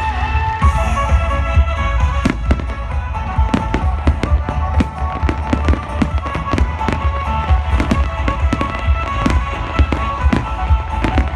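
Fireworks bursting in quick succession, many sharp bangs and pops a second over a continuous deep rumble, with music playing alongside.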